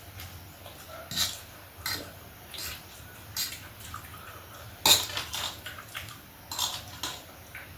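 Cutlery clinking and scraping against a plate while eating, in about seven short, separate knocks, the loudest about five seconds in.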